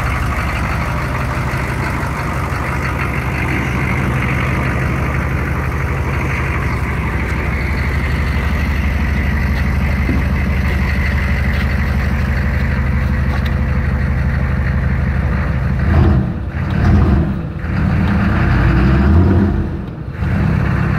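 6.5-litre V8 turbo diesel running through a straight-piped exhaust with the muffler cut out and dual 4-inch tailpipes, idling steadily. About sixteen seconds in, it surges and falls back several times as the throttle is opened.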